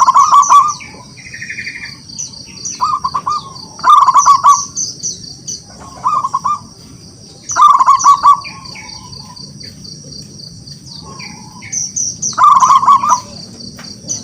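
Zebra dove (perkutut) cooing: short phrases of rapid, staccato coo notes, repeated several times a few seconds apart. A steady, pulsing high chirring of insects runs underneath.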